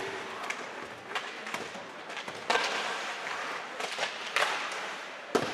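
Ice hockey play in a rink: scattered sharp clacks and knocks of sticks, puck and boards over a steady hiss, with the loudest hits about two and a half seconds in and near the end.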